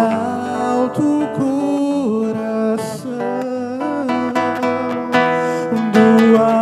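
Acoustic guitar played live, plucked and strummed, under a man's voice holding long, sliding sung notes without words: the closing bars of an acoustic voice-and-guitar song.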